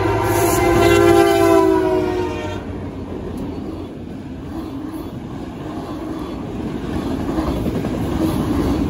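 Diesel freight locomotive's air horn sounding one long chord of several tones that drops slightly in pitch as the lead unit passes, cutting off about two and a half seconds in. After it, the steady rumble of a long train of autorack cars rolling past on the rails.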